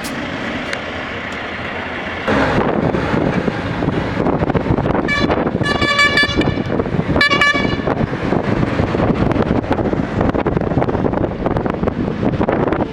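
Heavy diesel machinery running at a road work site, its noise jumping louder about two seconds in. A vehicle horn honks a few times, about five to seven and a half seconds in.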